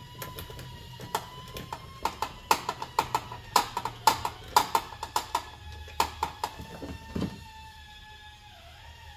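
Ratchet wrench clicking in quick runs, about three to four clicks a second, as the 10 mm nut at the back of a tail light housing is backed off. The clicking stops about seven seconds in.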